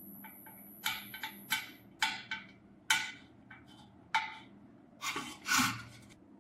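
Irregular sharp clinks and knocks, about a dozen in a few seconds, each with a brief ring, as metal parts and tools are handled on a workbench.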